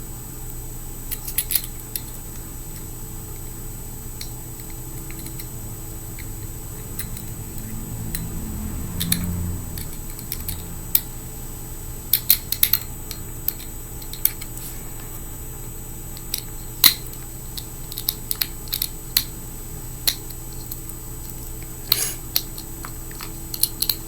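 Scattered small clicks and taps as a fingerboard truck, its hardware and a small tool are handled while the truck is fitted to the deck. A brief low hum comes in around the middle.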